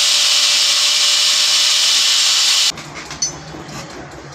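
Handheld power tool running steadily on the metal of a motorcycle exhaust pipe, a loud hissing whine that cuts off abruptly a little over halfway through, leaving quieter workshop background with a few faint clinks.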